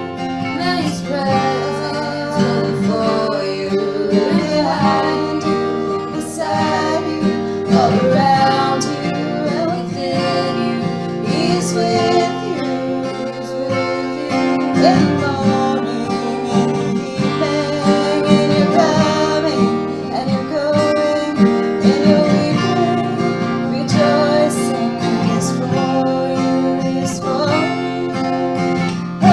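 A song played on acoustic guitar, with a voice singing the melody over the strummed chords.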